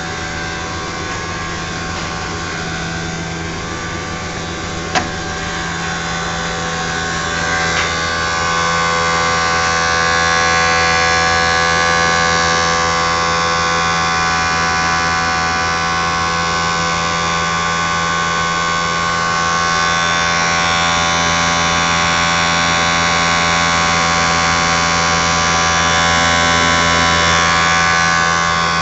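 Triangle blower motor running steadily: a hum with several steady whining tones over it, a single sharp click about five seconds in, and getting a little louder around eight seconds in.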